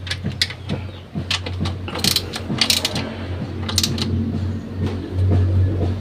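Irregular metallic clicks and clanks of hand tools being worked on car parts, over a steady low hum.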